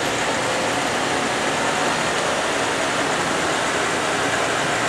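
Monarch 10EE tool room lathe running steadily at speed on its AC inverter drive, its speed knob turned up.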